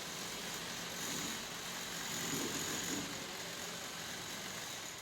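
A steady mechanical hum with faint voices in the background.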